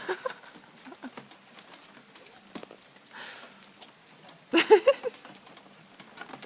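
A toddler's short, high vocal cries, loudest about two-thirds of the way in, over a faint patter of rain.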